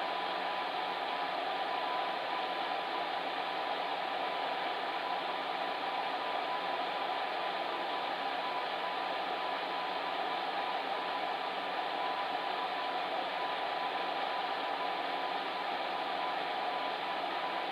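Electric fan heater running steadily: an even rush of blown air with a faint steady hum underneath.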